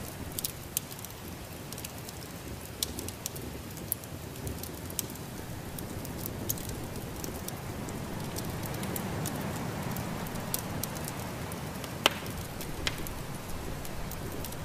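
Wood fire crackling, with scattered sharp pops and one louder pop about 12 seconds in, over a steady rushing hiss of snowstorm wind that swells briefly in the middle.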